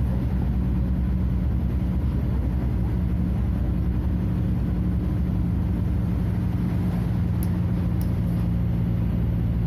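Scania DC09 five-cylinder diesel engine of a Scania F250HB bus running steadily at constant revs, an even drone with no rise or fall in pitch.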